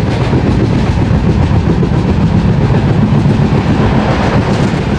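Express passenger train running at speed, heard from on board: loud, steady running noise of the coach's wheels on the rails.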